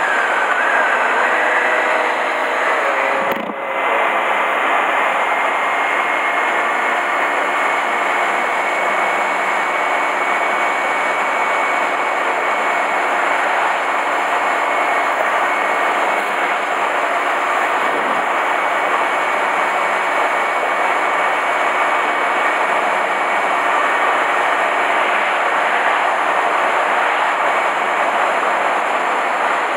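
Honda Hornet 250 motorcycle's four-cylinder engine running steadily under way, with a steady rush of wind noise over it. The engine note dips briefly about three and a half seconds in, then carries on evenly.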